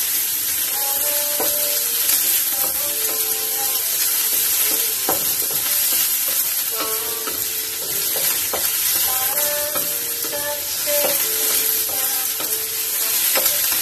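Chopped garlic and onion sizzling in hot oil in a stainless steel wok, stirred with a wooden spatula. The spatula scrapes and knocks against the metal now and then.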